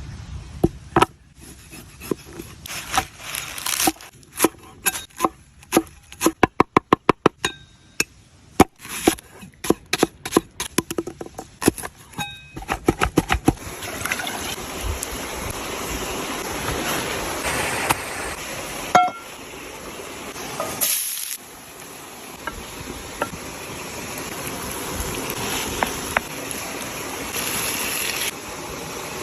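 Outdoor cooking sounds: a string of knocks and clinks, including a quick even run of strokes like chopping, then a steady hiss like food sizzling that slowly grows louder.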